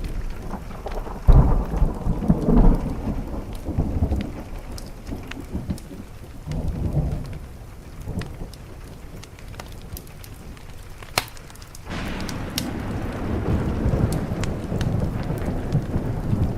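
Thunder rumbling over rain on a window, with sharp crackles and pops from a wood fire. The rumbles are strongest in the first few seconds, and the rain grows louder and denser about three-quarters of the way through.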